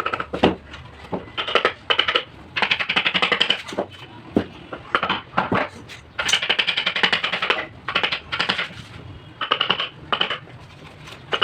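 Bursts of rapid, sharp taps, each burst up to about a second long with short pauses between: a carving chisel being tapped with a mallet as it cuts a design into MDF.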